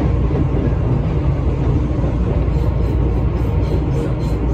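Tobu 8000 series commuter train running, heard from the driver's cab: a steady rumble of wheels and motors on the track. A faint, rapid high ticking joins in about halfway through.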